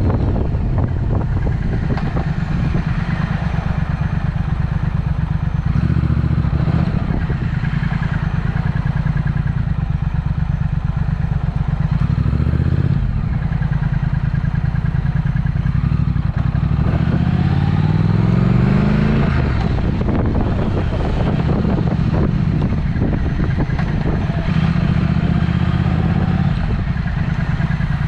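Triumph Speed Twin's parallel-twin engine running through a Vance & Hines aftermarket exhaust while under way. About two-thirds of the way through it revs up in a rising pitch, then settles back to a steady pull.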